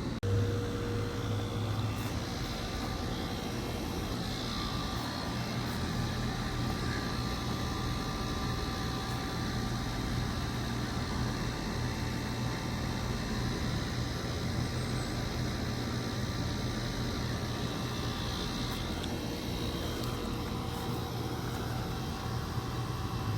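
A 1.5-ton Goodman GSZ14 heat pump's outdoor unit running in a defrost cycle: a steady rushing noise over a low hum. The hum is louder for the first couple of seconds.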